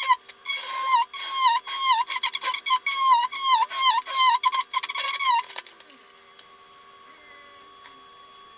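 A pet animal giving a rapid series of high, squeaky calls, about two or three a second, each dipping and then rising in pitch; they stop about halfway through, leaving a faint steady hum.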